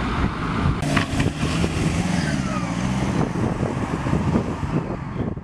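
Modified cars' engines revving and accelerating away, pitch rising and falling through the revs, with a sharp pop about a second in; the sound fades out near the end.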